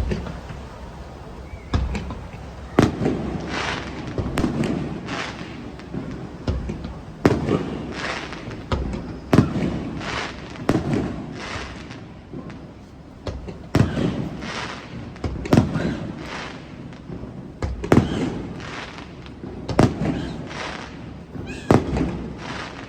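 Fireworks display: aerial shells bursting one after another, about a dozen sharp bangs a second or two apart, each trailing off in a rumbling echo.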